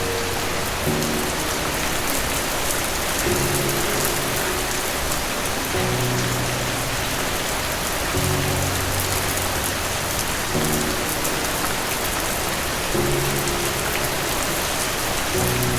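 Steady rain falling, an even hiss, with soft low instrumental chords underneath that change about every two and a half seconds.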